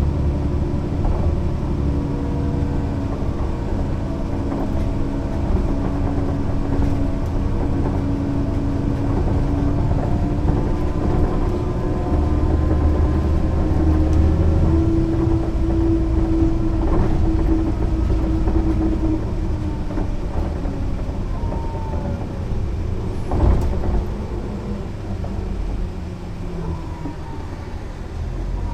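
Mercedes-Benz O 405 NÜ low-floor bus under way: its diesel engine and driveline run with a steady whine whose pitch rises a little in the middle, then ease off in the later part. A single sharp knock comes a few seconds before the end.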